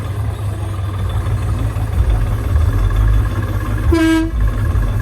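Tractor engine running steadily with a strong low hum. About four seconds in, a short flat horn-like beep sounds once.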